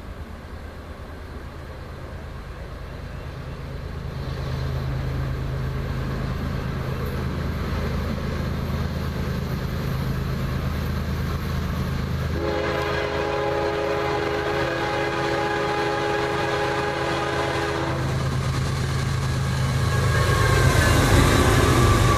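CSX freight train's diesel locomotives approaching and passing: the engine rumble builds over the first few seconds. The locomotive horn sounds one long blast about halfway through, lasting about six seconds. Near the end the loaded aggregate hopper cars roll by with loud wheel-on-rail noise.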